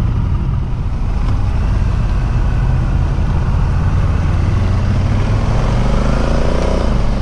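Motorcycle engine pulling away from a standstill and accelerating, its pitch rising in the last couple of seconds, over a steady low wind rumble on the bike-mounted microphone.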